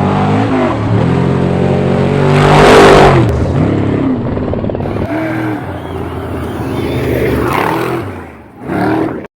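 Off-road Trophy Truck race engine revving hard as it passes, its pitch rising and falling repeatedly, loudest about three seconds in. Another surge of revs comes near the end before the sound cuts off suddenly.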